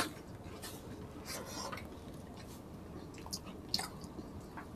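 Close-miked eating sounds of people chewing roast pork belly and rice: soft wet smacks and small scattered clicks from mouths and fingers, with a sharper click right at the start.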